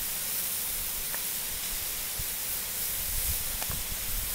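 Waterfall pouring into a small pool: a steady, even hiss of falling water, with a few low bumps in the second half.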